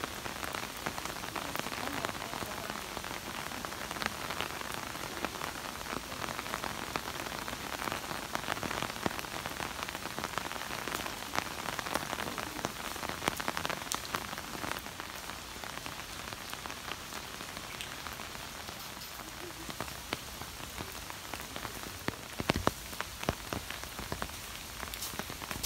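Steady rain falling, with scattered sharp taps of drops hitting close by and a few louder taps near the end.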